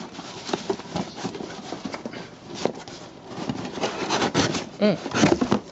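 A cardboard shipping box and its packing being pulled open and handled: irregular rustling, scraping and light knocks. A short voice-like sound comes a little before the end.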